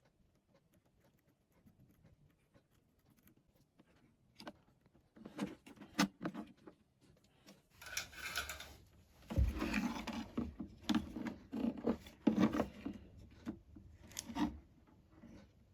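Handling noise from hands and small tools working on a Bluetooth speaker's wiring: scattered clicks and taps, then stretches of scraping and rubbing near the middle, and a last few clicks near the end.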